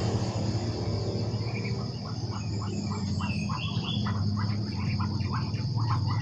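Steady high-pitched drone of insects, with a run of short repeated calls about two to three a second starting about a second in, and a couple of brief bird chirps.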